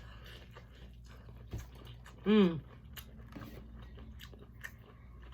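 Close-miked eating sounds: chewing and small mouth clicks. About two seconds in comes a short hummed "mm" that falls in pitch.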